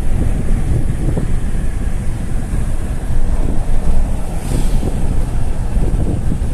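Wind buffeting the microphone over the low rumble of a moving road vehicle, with a brief hiss about four and a half seconds in.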